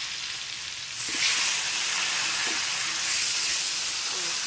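Chicken pieces going into hot oil and fried paste in a wok: the sizzling jumps louder about a second in and keeps up steadily, with a metal spatula stirring.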